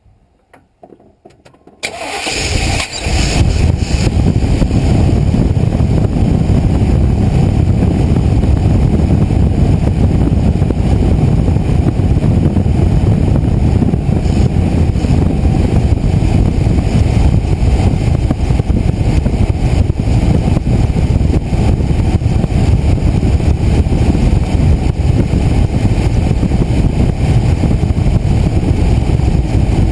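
1988 Chevrolet 2500 pickup's 5.7 L throttle-body-injected V8 cranking and catching about two seconds in, then running steadily and loudly. A few faint clicks come just before it starts.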